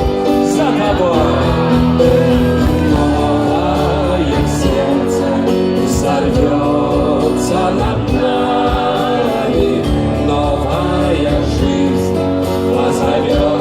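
Live rock band playing an instrumental stretch between sung lines: steady full-band chords with a lead melody that bends and wavers in pitch over them.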